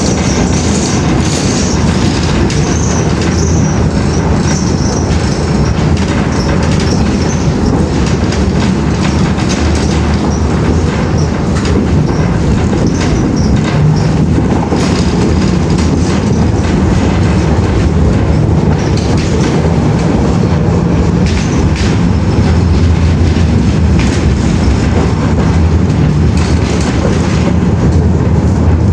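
Moving train: a loud, steady rumble that goes on without a break.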